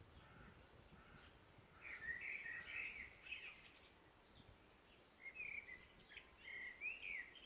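Songbirds singing: two short runs of chirping, gliding notes, about two seconds in and again about five seconds in, with a few faint higher calls between, over a low background hiss.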